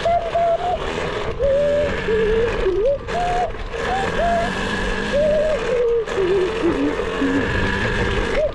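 Small KTM dirt bike engine revving up and down as it is ridden, its pitch climbing, holding and falling again and again with quick throttle changes, dipping lower for a moment about two-thirds of the way through.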